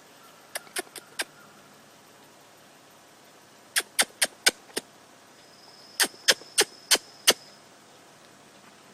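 Sharp knocks in three quick series, four, then five, then five, at about four a second, over a quiet outdoor background.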